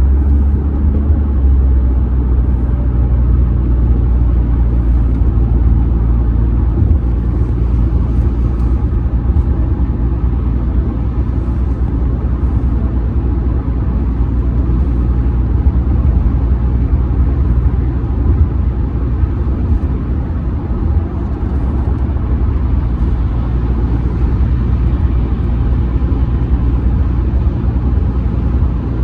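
Audi A6 C6 2.0 TDI four-cylinder turbodiesel car under way at a steady speed, heard from inside the cabin: an even, low rumble of engine, tyres and road, with no change in pace.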